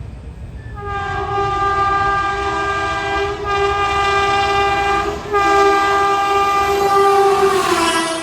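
Train horn sounding as a train approaches and passes at speed: a long blast with two brief breaks, dropping in pitch near the end as the train goes by, over the low rumble of the train.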